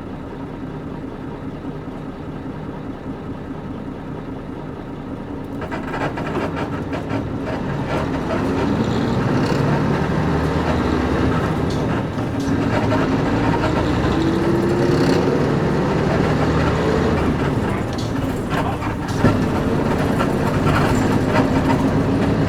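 Nissan Diesel KC-UA460LSN bus's PG6 diesel engine heard from inside the cabin. It runs steadily and quietly for about five seconds, then grows louder as the bus pulls away, its note rising under acceleration with a brief dip around halfway, likely a shift of the five-speed manual gearbox. The body and leaf-spring suspension rattle and creak throughout.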